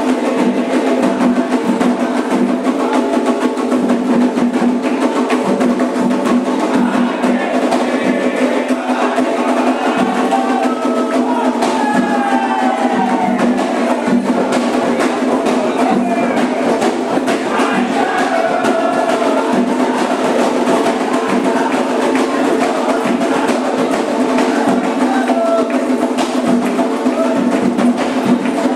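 Candomblé ritual music: fast, steady percussion of drums and a wood-block-like beat, with voices singing over it at times.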